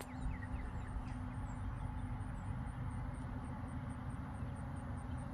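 Wind rumbling on the microphone outdoors, with a faint high-pitched pulsing about four times a second.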